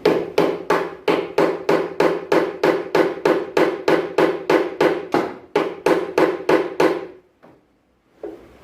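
Steady rapid hammer blows on a metal part, about three a second, each leaving a short metallic ring, stopping about seven seconds in; one more knock near the end.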